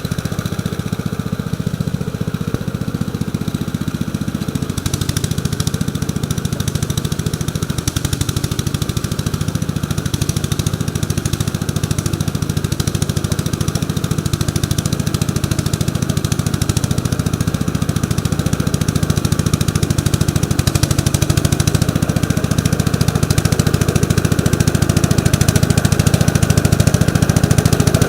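A 1948 Gravely Model L walk-behind tractor's single-cylinder engine running steadily while it drives a rotary plow through super wet ground. It grows slightly louder near the end.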